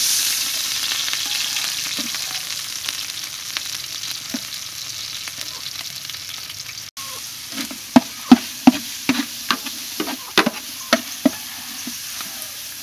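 Pounded yellow spice paste sizzling in a large hot metal pot, the hiss slowly fading. From about seven seconds in, a metal spoon scrapes and knocks against the pot bottom in a quick run of sharp strokes as the paste and lemongrass are stirred; these strokes are the loudest sounds.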